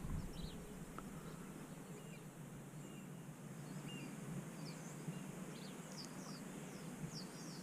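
Birds calling faintly with scattered short, high chirps, more often in the second half, over a steady low background hiss.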